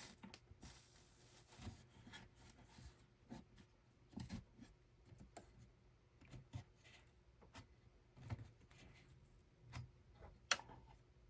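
Quiet handwork with thread and tools: scattered soft taps, rubs and small clicks, roughly one a second and unevenly spaced, with one sharper click about ten and a half seconds in.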